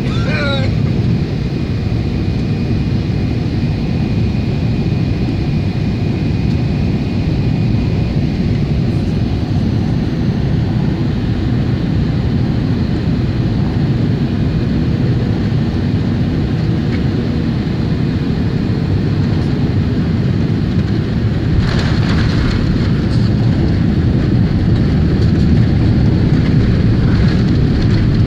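Steady cabin noise inside a Boeing 777 airliner: engine and airflow noise, strongest in the low range. A brief burst of noise about three-quarters of the way through, with the noise growing slightly louder after it.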